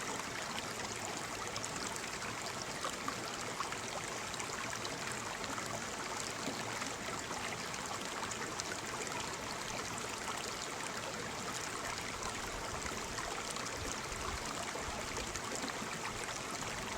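Waterfall: a steady rush of falling water with fine splashing, even throughout.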